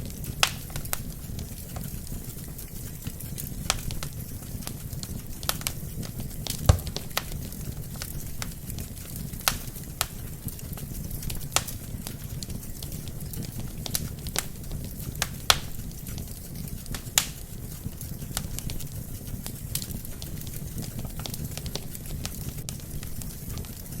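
Wood fire burning in a fireplace: sharp, irregular crackles and pops every second or so over a steady low rumble of the flames, with one louder pop about seven seconds in.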